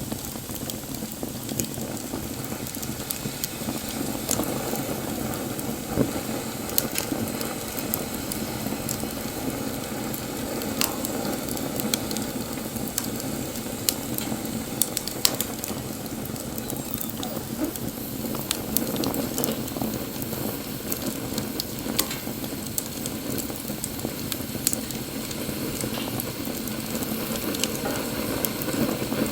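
Wood fire burning: a steady hiss with frequent sharp crackles and pops from the burning wood, a few of them louder.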